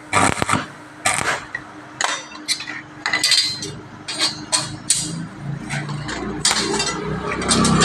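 Sharp metal-on-metal strikes and clinks, irregular, about one or two a second, typical of a hammer striking steel bars while a welded grill is being made. A low hum rises near the end.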